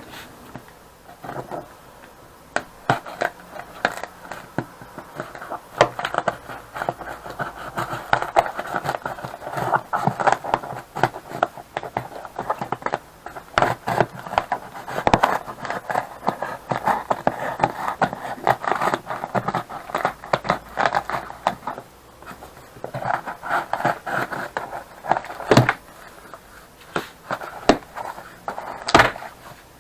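Handling noise: a continuous, irregular run of scraping, rustling and small clicks and knocks, with a few sharper knocks near the end. This is likely the welder and its packaging being handled.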